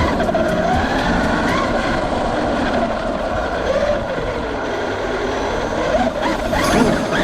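Traxxas UDR radio-controlled desert truck running, its electric motor whine wavering up and down in pitch with the throttle, over a steady rushing noise.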